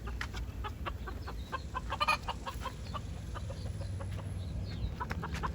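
Chickens clucking: a run of short, separate calls, the loudest about two seconds in, over a steady low rumble.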